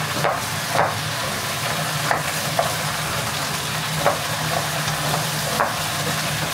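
Vegetables, carrots among them, sizzling steadily as they stir-fry in hot oil in a pan, with a few short clicks of a utensil knocking against the pan as they are stirred.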